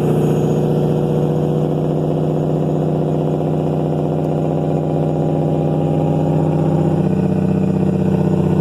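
Caterpillar 3406E diesel in a Kenworth W900 running through 8-inch straight-pipe exhausts: a loud, steady, pulsing rumble that grows a little louder about seven seconds in.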